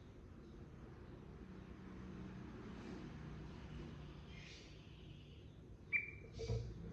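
Faint steady background hiss and low hum for most of the stretch, then near the end short calls of a yellow-vented bulbul (trucukan): a faint call about four and a half seconds in, a sharp brief whistled note about six seconds in, and another call right after.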